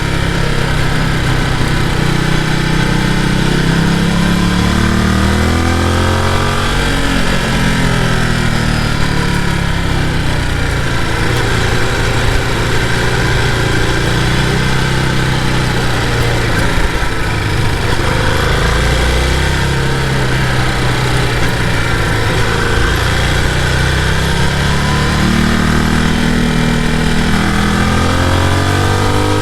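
Ducati Multistrada V2S's twin-cylinder engine running under way, its pitch climbing and dropping with throttle and gear changes, rising sharply about six seconds in and again near the end, over a steady rush of wind and road noise.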